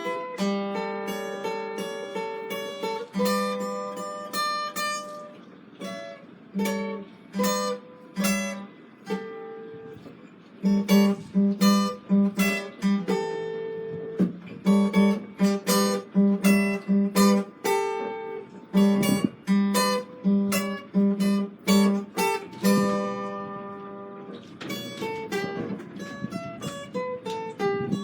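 Acoustic guitar played live, picked notes and chords, turning into a rhythmic run of sharp strummed chords about ten seconds in.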